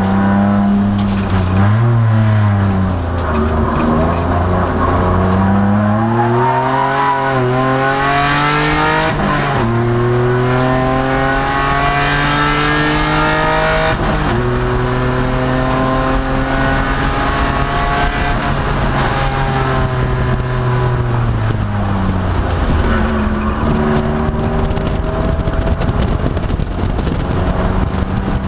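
2002 Nissan Maxima's 3.5-litre V6 race engine at speed on a circuit, heard from inside the car. It comes off the throttle and slows early on, then climbs in pitch through the gears, with upshifts about nine and fourteen seconds in. It holds steady, drops again for a corner a little after twenty seconds, then pulls once more.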